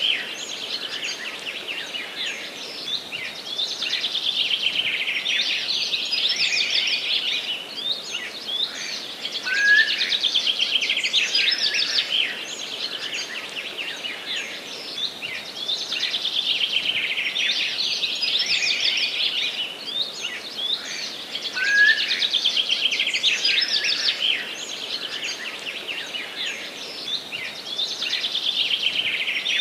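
A dense chorus of several songbirds singing at once: fast chirps and trills overlapping continuously, with the same stretch of song recurring about every twelve seconds.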